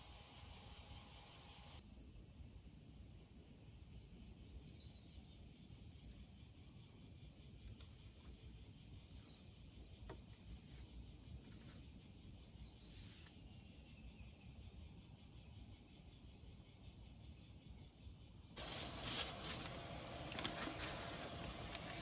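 Summer insects trilling in a steady, high-pitched chorus, with a few faint short chirps in the middle. Near the end a louder, rapidly clattering sound comes in over it.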